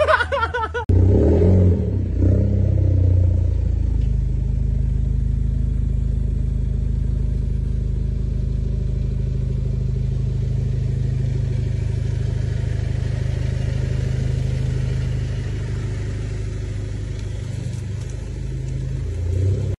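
A car engine running with a steady low rumble, close to the microphone, starting abruptly about a second in.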